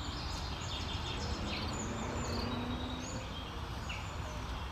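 Wild birds chirping in short scattered calls over a steady low rumble of outdoor ambience.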